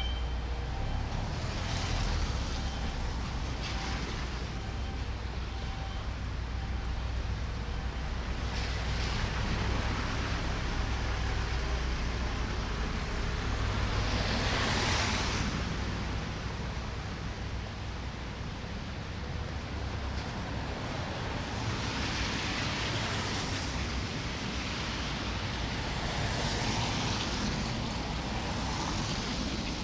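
City street ambience in a snowstorm: cars passing one after another on a snow-covered road, their tyre hiss swelling and fading several times, loudest about halfway through, over a steady low rumble of traffic and wind.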